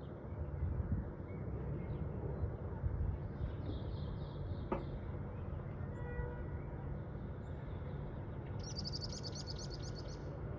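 Songbirds calling: several short high chirps a second or so apart, then a rapid high trill of many quick notes about two-thirds of the way in, over a steady low rumble.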